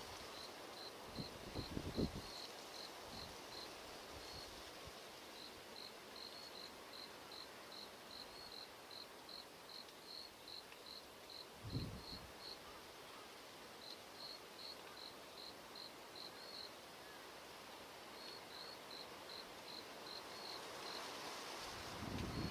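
A cricket chirping: runs of short, evenly spaced high chirps, several a second, broken by brief pauses. Two short low thumps, about two seconds in and near the middle, stand out above the chirping.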